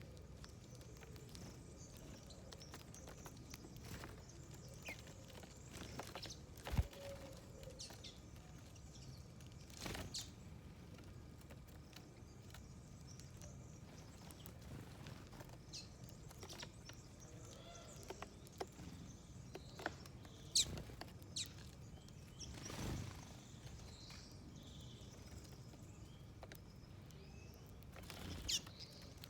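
Small wild birds at a feeding dish: scattered light taps of pecking and hopping, with a few short high chirps. The sharpest taps come about seven seconds in and again about twenty seconds in.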